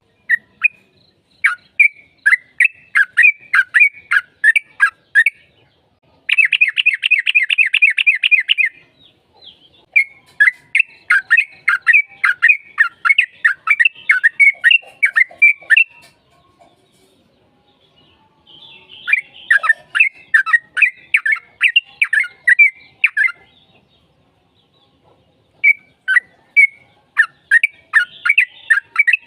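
Yellow-vented bulbul (trucukan) singing in lively phrases of quick, bubbly chirps. About a quarter of the way in comes a fast rattling trill, and there are short pauses between phrases.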